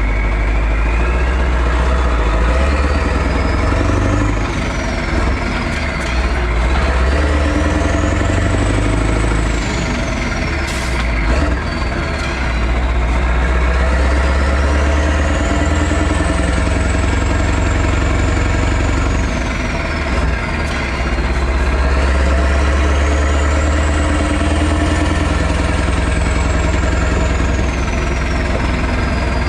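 V8 diesel truck engine running loud with a deep rumble, its revs climbing and falling back four times, a high whine rising and falling along with each pull. A brief sharp hiss or clack comes about eleven seconds in.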